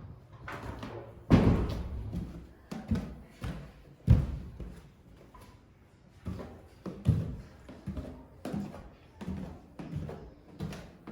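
A series of thuds and knocks, two heavier ones in the first half, then lighter knocks spaced less than a second apart.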